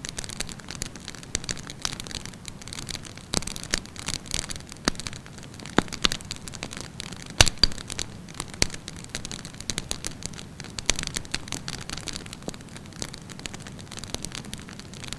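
Wood campfire burning with a steady low rush and irregular sharp pops and crackles, the loudest pop about halfway through.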